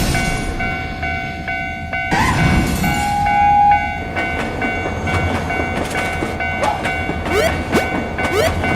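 Cartoon train sound effects: a train running, with a gliding horn blast about two seconds in and a held whistle tone a second later, over the steady ringing of a railroad crossing alarm. Near the end comes a run of quick rising chirps, about two a second.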